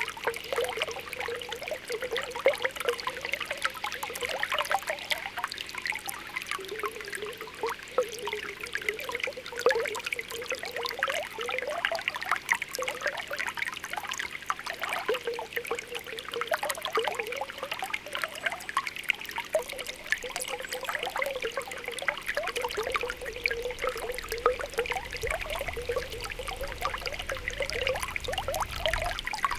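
Spring water welling up from the ground, bubbling and popping in quick, irregular little pops and plinks over a steady trickle.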